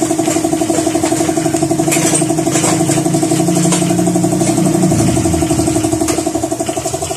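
A small engine running steadily with a fast, even pulse, with a few light metallic clicks from hand tools.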